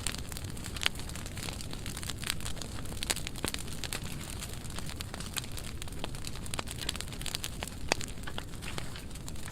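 Burn pile of dry pruned wood burning, crackling steadily with many sharp pops over a low rumble of flame; a few pops are louder, about a second in, near three seconds and near eight seconds.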